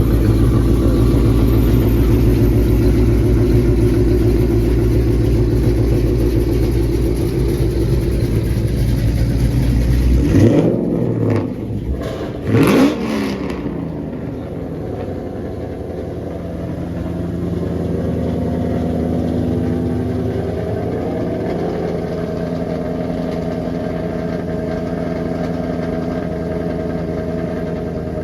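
Car engine with a deep, loud rumble, then two quick revs about ten and twelve seconds in, after which it settles to a quieter, steady idle.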